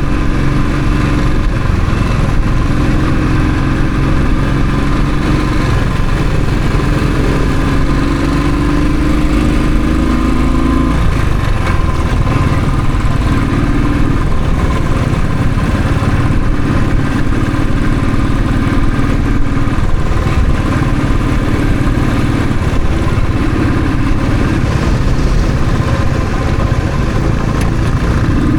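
Royal Enfield Thunderbird's single-cylinder engine running on the move. The engine note rises and falls with the throttle, climbing about eight seconds in and dropping back a little after ten seconds.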